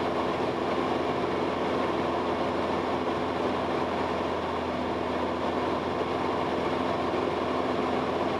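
Cessna 172S's four-cylinder Lycoming IO-360 engine and propeller droning steadily in the cabin at cruise power, set to about 2400–2500 RPM with the mixture just leaned.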